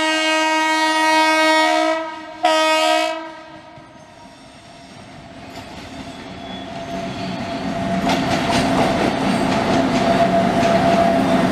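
Indian Railways WAP-7 electric locomotive sounding its horn as it approaches: a long blast that ends about two seconds in, then a short blast. After a brief lull the train rolls in, its running noise growing louder with wheels clattering over rail joints and a steady whine.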